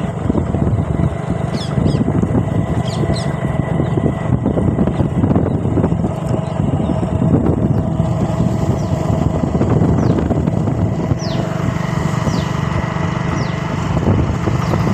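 Motorcycle running steadily under way, with a dense low rumble. In the second half, a series of short, high, falling chirps sounds over the engine.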